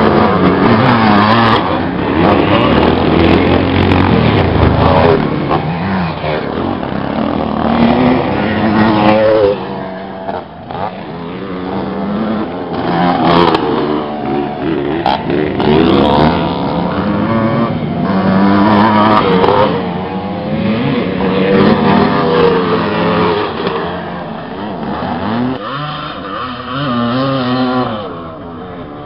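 Several classic motocross bikes racing, their engines revving up and falling back again and again, overlapping one another, easing briefly about ten seconds in and again near the end.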